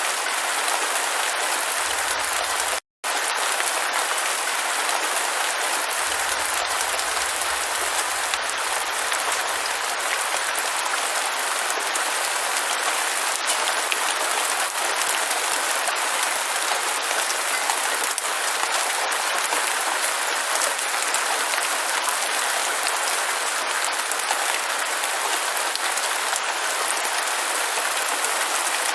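Steady, dense rainfall hissing evenly, with fine drop ticks in it. The sound cuts out for a split second about three seconds in, then carries on unchanged.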